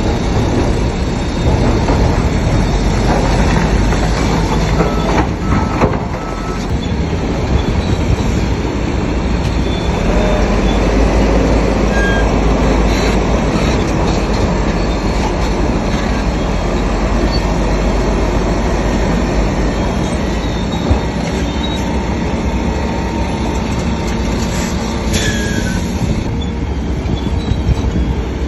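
Shantui crawler bulldozer working, its diesel engine running steadily under load together with the metallic clatter and squeal of its steel tracks.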